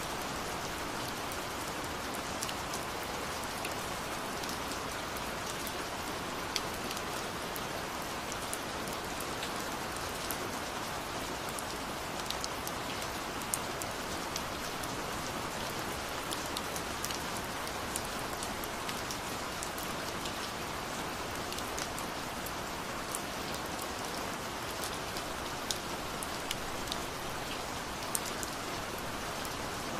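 Steady rain falling, an even hiss with scattered sharp taps of individual drops throughout.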